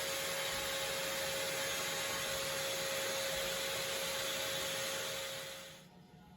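Toilet tank refilling through its fill valve: a steady hiss with a faint constant whistle, which fades and stops near the end as the valve shuts off.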